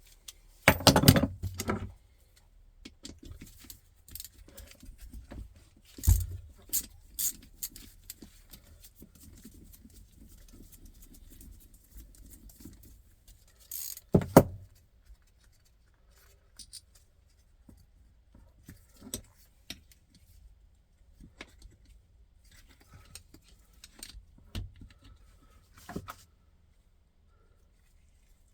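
Metal tools and engine parts clinking, knocking and scraping in irregular clatters as a Lexmoto ZSB 125 motorcycle engine is taken apart by hand. The loudest clanks come about a second in, around six seconds in and near the middle, with quieter handling between them.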